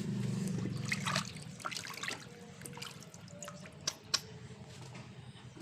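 Water trickling and dripping as a plastic toy duck is washed, with scattered small splashes and drip clicks. A low steady hum stops about a second in.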